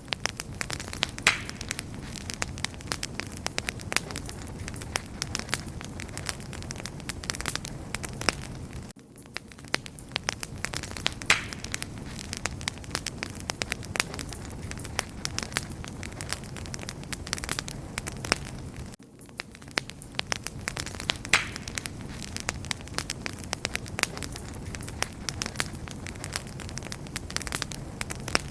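Wood fire crackling steadily: dense pops and snaps over a low, even rumble of burning. The same stretch seems to repeat about every ten seconds, each time with a brief dip in the crackle and a short hiss.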